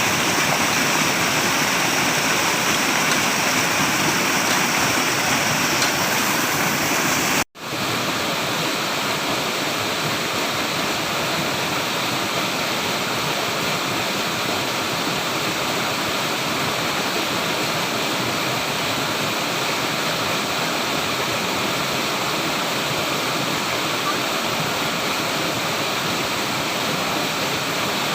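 Steady rush of flowing water, a stream or small waterfall. About seven seconds in it cuts out to silence for an instant, then resumes slightly quieter and duller.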